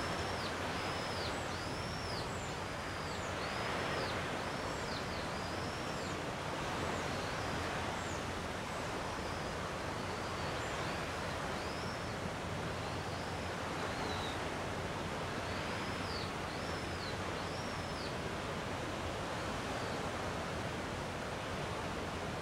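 Gentle sea waves washing steadily, with a bird calling over them in runs of short, arched whistled notes, a quick series in the first few seconds and scattered calls later on.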